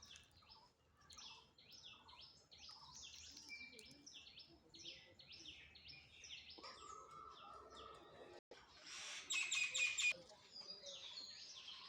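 Small birds chirping and twittering in a steady run of short high calls, with a louder burst of repeated ringing notes about nine seconds in.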